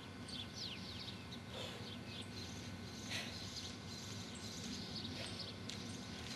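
Birds chirping in short, quick calls over a steady low outdoor hum, with a few faint clicks.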